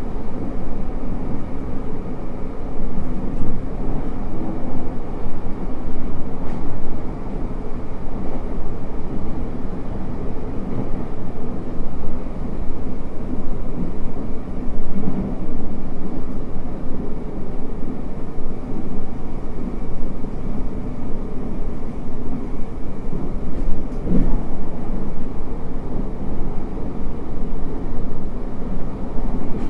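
Cabin running noise of a JR Hokkaido 733 series electric train under way: a steady rumble of wheels on rail, with a brief knock about 24 seconds in.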